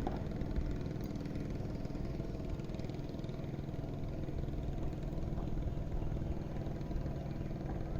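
A small engine running steadily at low revs, with a low rumble of wind underneath.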